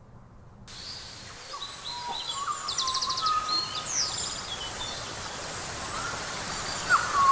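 Several birds chirping, whistling and trilling over a steady hiss of outdoor background noise, starting suddenly under a second in and growing louder.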